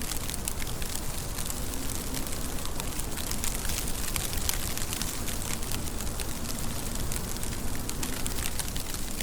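Steady rain falling: an even hiss thick with the sharp patter of individual drops striking a surface.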